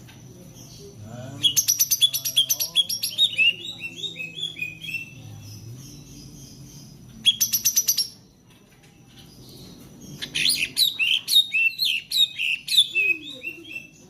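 A songbird singing in three loud bursts: rapid clicking rattles followed by runs of short, sharp falling chirps, starting about a second in, again about seven seconds in, and from about ten seconds in.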